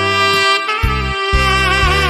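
Tenor saxophone playing a slow melody, holding notes with vibrato, over a backing track with a pulsing bass line.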